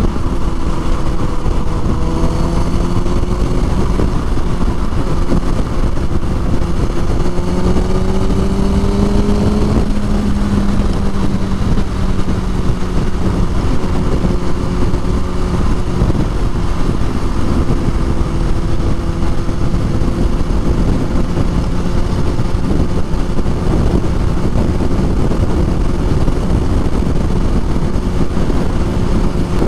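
Kawasaki ZX-6R inline-four motorcycle engine running under way. It pulls up slowly in pitch over the first ten seconds or so, then holds a steady cruise, with a heavy rush of wind over the microphone.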